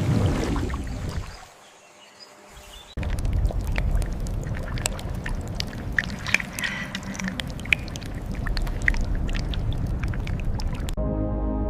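Water splashing and sloshing, dense with small clicks and a few short high chirps, cutting suddenly to soft ambient music near the end.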